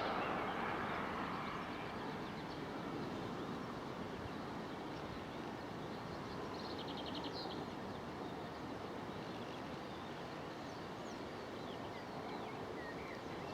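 Steady outdoor background noise with faint, scattered bird chirps, including a quick trill about halfway through. A radio hiss fades out in the first second or two.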